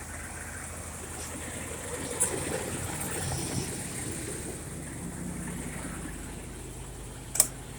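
1995 GMC Topkick truck engine idling steadily while its air compressor builds brake-system air pressure. There is a light knock about two seconds in and a sharp click near the end.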